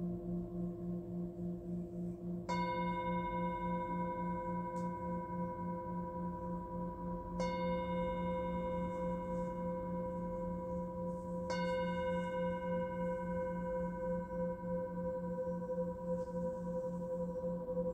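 Singing bowls in a sound-therapy session. A low bowl keeps ringing with a fast, even wobble, and a bowl is struck three times: about two and a half seconds in, around seven and a half seconds, and around eleven and a half seconds. Each strike rings on for several seconds.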